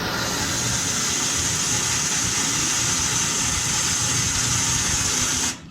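Handheld gas torch flame burning steadily while heating the steel water heater tank for soldering, then shut off suddenly near the end.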